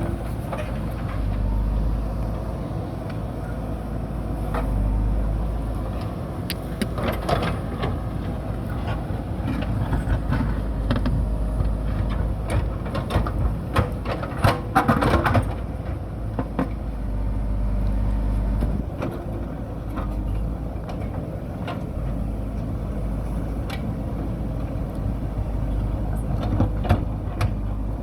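JCB backhoe loader's diesel engine running steadily, with repeated clanks and knocks from the bucket and arm as it cuts into the hillside soil. A cluster of louder knocks comes about halfway through.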